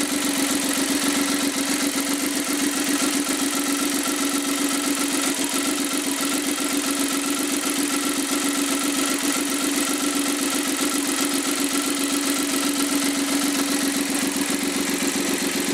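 Suzuki K6A three-cylinder engine, built for a Lapin Turbo but run bare on a test stand without its turbocharger, idling steadily when fully warmed up.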